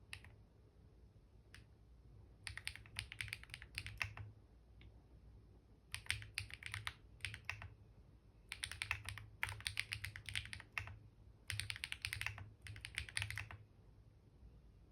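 Typing on a computer keyboard in short bursts of rapid key clicks, with pauses of a second or so between the bursts.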